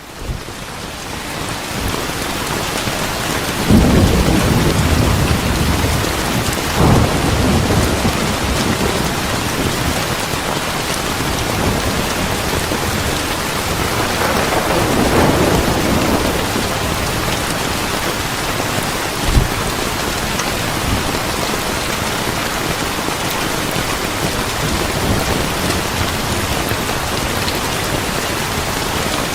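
Steady heavy rain with thunder: a rumble about four seconds in, another around seven seconds, a longer rolling one that swells and fades around fifteen seconds, and a short sharp crack near twenty seconds.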